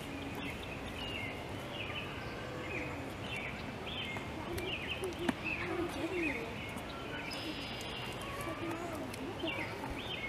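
Birds calling over and over: short, high chirps repeating every half second or so, over steady background noise.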